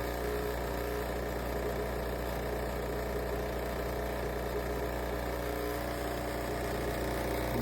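Philips 3200 Series espresso machine humming steadily without a break, running on while stuck in a fault that keeps it from dispensing coffee.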